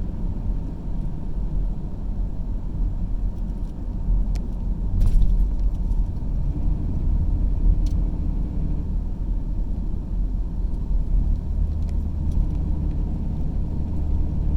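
Car driving along a road, heard from inside: a steady low rumble of engine and tyres, with a couple of faint clicks.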